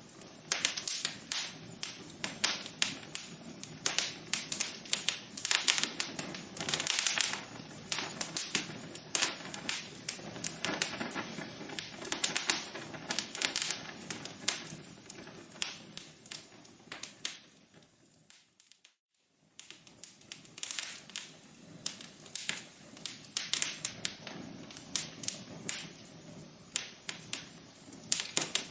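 Wood fire in a fireplace crackling, with dense irregular pops and snaps over a soft hiss. About two-thirds of the way in, the sound fades almost to silence for about a second, then the crackling comes back.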